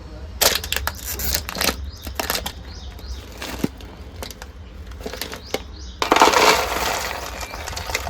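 Crinkly plastic snack packet being handled, with sharp crackles early on and a longer, denser rustle about six seconds in.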